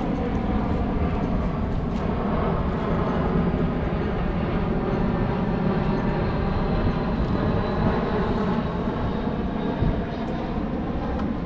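Steady engine drone of an airplane overhead, with several steady tones and a faint high whine slowly falling in pitch in the second half.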